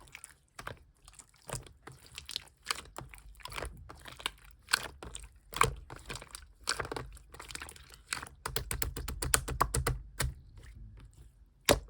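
Yellow clear slime being pressed and worked by hand, making a string of wet clicks and pops as air pockets burst, with a quick run of clicks about two-thirds of the way in.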